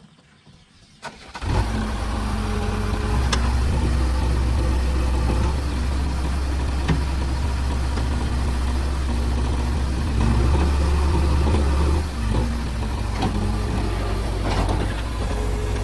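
JCB backhoe loader's diesel engine starting about a second and a half in, just after a click, then running steadily with a deep, even note. A few sharp metallic clicks sound over it.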